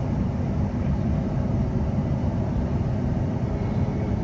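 Steady low rumble of a New Generation Rollingstock (NGR) electric train in motion, heard from inside the passenger car: wheels on the rails and running gear, with no sudden knocks or changes.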